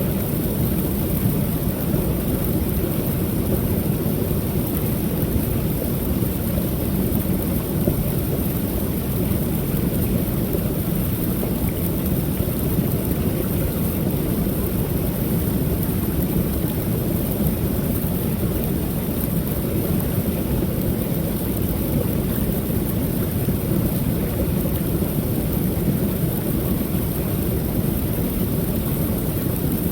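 Creek waterfall: water pouring over the falls in a steady, unchanging rush, deep and full at the bottom with a thin hiss above.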